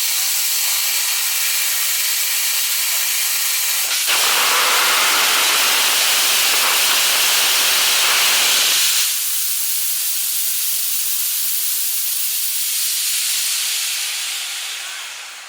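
Paraffin/gaseous-oxygen hybrid rocket engine on a static test. A steady high hiss of oxygen flow turns, about four seconds in, into a louder, fuller rushing noise for about five seconds while the motor fires. It cuts back to the hiss, which fades out near the end.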